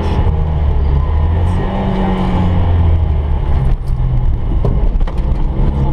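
Citroën 2CV's air-cooled flat-twin engine running under load, heard from inside the car, its note shifting a couple of times as it pulls along the road. A few short knocks and rattles come through about four to five seconds in.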